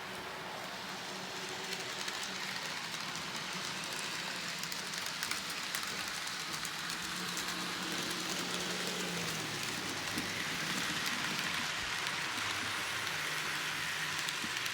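Model trains running on a layout: a steady rolling hiss of small wheels on track, with faint clicks and a low motor hum that shifts now and then.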